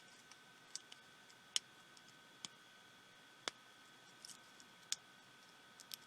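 Scattered sharp clicks and taps of small plastic parts being handled and pried apart as a pico projector's plastic housing is opened, about eight in all at uneven intervals, the loudest about one and a half seconds in. A faint steady high tone runs underneath.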